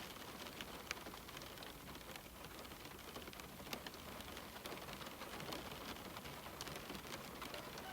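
Steady rain on window glass: a constant hiss of rainfall with individual drops ticking against the pane at irregular moments.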